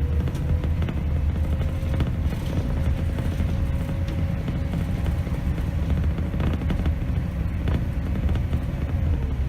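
Scania K270 city bus on the move, heard from the driver's seat: its nine-litre five-cylinder diesel gives a steady low rumble under a thin drivetrain whine that holds its pitch and dips near the end, with scattered rattles and clicks from the cabin.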